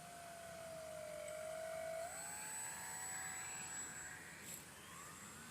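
Multiplex FunCub RC plane's electric motor and propeller whining in flight, the pitch sagging and then rising about two seconds in, loudest around the middle and fading toward the end.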